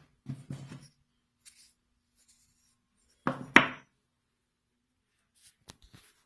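Handling sounds of wooden parts, with a few short knocks and rubs, the loudest about three and a half seconds in, then small clicks near the end. The table saw is not running.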